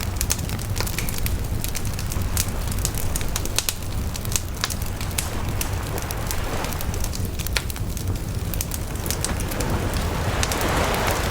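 Wood bonfire burning, crackling with many sharp, irregular pops over a steady low rush of flame. Near the end the rushing swells louder for a moment.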